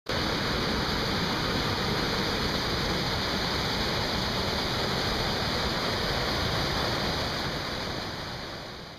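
Steady rushing of a waterfall, fading out near the end.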